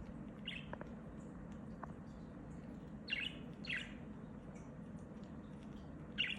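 Budgerigars chirping: a few short chirps, two close together about three seconds in and another near the end, with fainter high twitters between, over a steady low background hum.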